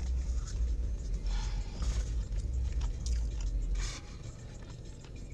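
A person biting into and chewing a piece of fried chicken, with a few short crunchy bursts over a steady low rumble.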